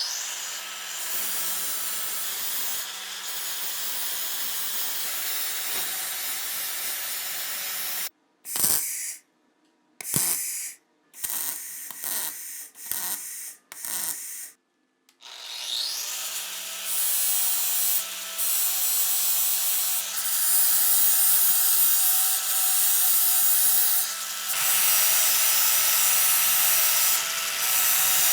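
An electric abrasive tool working a metal part: its motor whines up at the start and runs with a steady hum and a rough hiss. About eight seconds in it is run in several short bursts with silences between. It then whines up again and runs steadily to the end.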